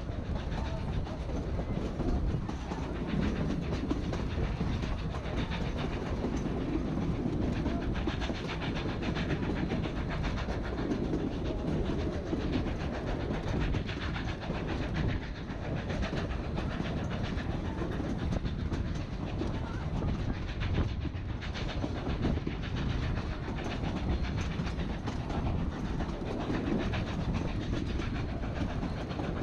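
Narrow-gauge passenger train running steadily over the rails: continuous wheel and car noise with some clickety-clack.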